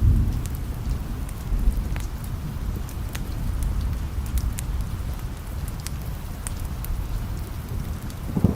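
Steady rain with a low rumble of distant thunder that is strongest right at the start and eases off, and scattered sharp crackles throughout.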